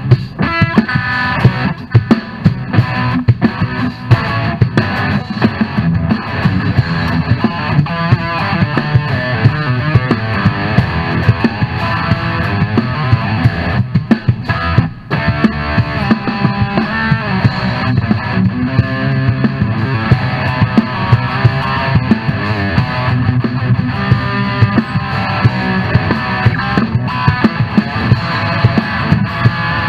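Instrumental hard rock: electric guitar playing lead lines over a drum kit, with a short drop-out about halfway through.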